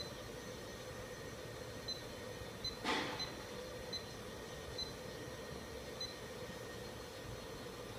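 Box folder-gluer machine humming steadily during its setup, with short, high electronic beeps at irregular intervals and a brief rushing sound about three seconds in.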